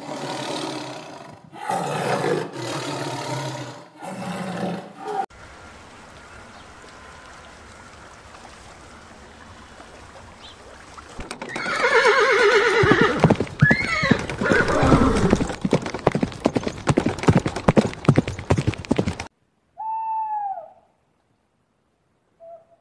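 Horse whinnying with a long neigh that falls in pitch, over a run of hoofbeats, starting about halfway through. Before it come a few seconds of loud animal calls, then a faint steady hum. An owl hoots once near the end.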